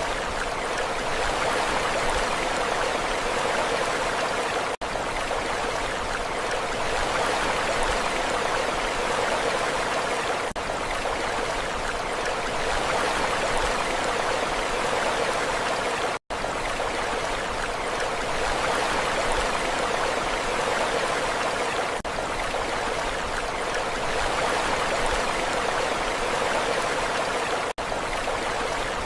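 Steady, even rushing of water with no rise and fall of individual waves, broken three times by a very brief gap in the sound.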